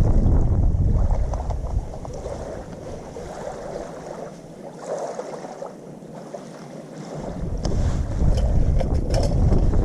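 Wind buffeting the microphone in a low rumble that eases for a few seconds in the middle and then picks up again. A few light clicks come near the end.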